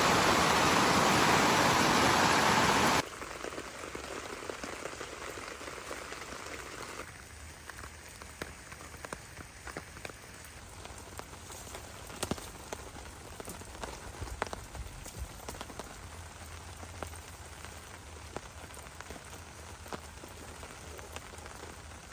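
Heavy rain hissing loudly, which cuts off abruptly about three seconds in to softer rainfall with many scattered individual drops pattering on a surface.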